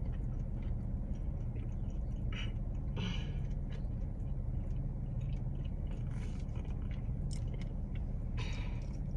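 A person chewing and biting into a buffalo chicken wing, with short, irregular wet mouth sounds. A steady low rumble runs underneath inside the car.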